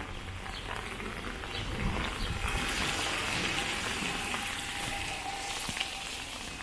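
Rain falling, an even hiss that swells for a few seconds in the middle.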